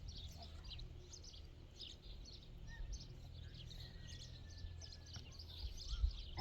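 Many small birds chirping in quick short calls throughout, over a low steady rumble.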